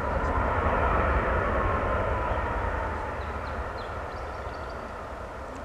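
Jet airliner passing by: a broad rush of engine noise that swells to its loudest about a second in, then slowly fades, with a tone sliding down in pitch as it goes.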